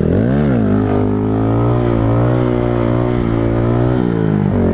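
KTM 690 SMC supermoto's single-cylinder engine under way. Its pitch rises and drops quickly about half a second in, then holds steady at cruising revs.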